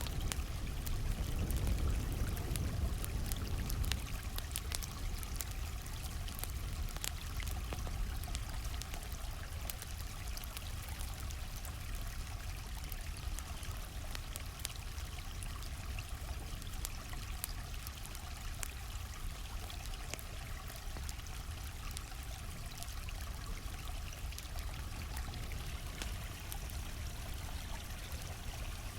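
Steady rush of a flowing stream, with the small irregular crackles and pops of a campfire scattered through it.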